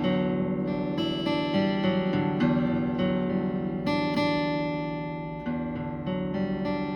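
Guitar music: plucked notes and chords ringing on and overlapping, with a fresh, brighter chord struck about four seconds in.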